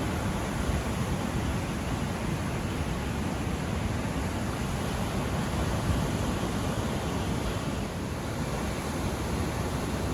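Ocean surf: a steady, continuous wash of breaking waves, with no single crash standing out.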